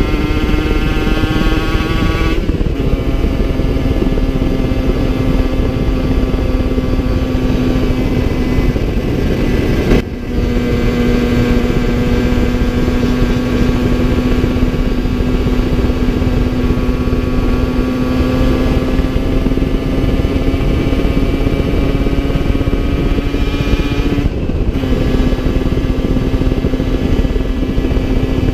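Two-stroke engine of a Yamaha TZR50 with a 70cc big-bore kit and Technigas exhaust, running on the move under steady throttle. Its top end is worn and down on power. The engine note drops sharply three times as the bike shifts up, about two seconds in, about ten seconds in and near the end, and climbs slowly in between, over a heavy rush of wind on the microphone.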